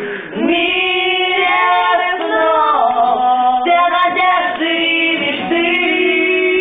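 A small group of voices singing a slow lullaby together, holding long drawn-out notes with no clear words.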